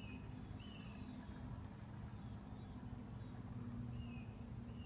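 Small birds calling, a few short high chirps and thin falling notes scattered through, over a steady low rumble.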